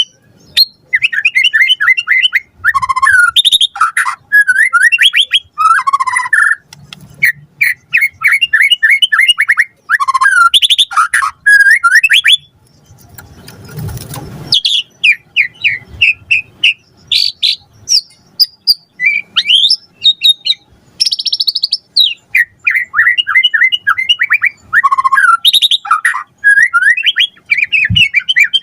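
White-rumped shama singing a loud, varied song of rapid repeated whistled notes and trills, broken by short pauses. A brief rustling noise comes about halfway through.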